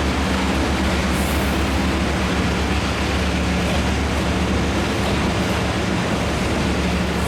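Taiwan Railways Chu-Kuang express train: a steady, loud rumble with a low hum.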